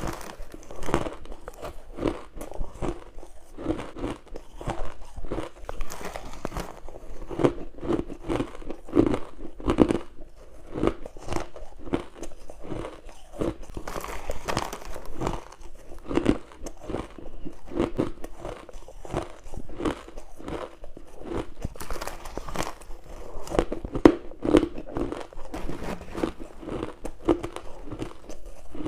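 Close-miked crunchy bites into freezer frost and crushed ice, one sharp crunch after another, a few every second.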